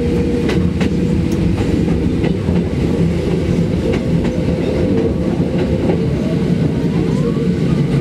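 Hakone Tozan Railway electric train running, heard from inside the carriage: a steady low rumble of wheels on rail, scattered sharp clicks, and a steady whine that fades after about five seconds.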